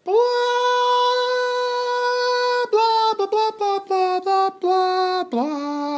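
A voice singing a deliberately annoying nonsense tune. It holds one long high note, then runs through a quick string of short notes stepping down in pitch, and settles on a lower held note near the end.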